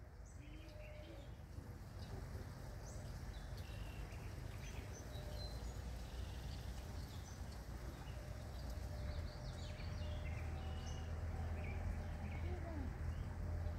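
Faint outdoor ambience: scattered short bird chirps over a steady low rumble that grows a little louder in the second half.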